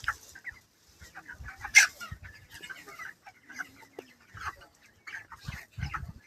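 Flock of 28-day-old broiler chickens clucking and chirping, many short calls overlapping, one louder call about two seconds in. A few low thumps near the end.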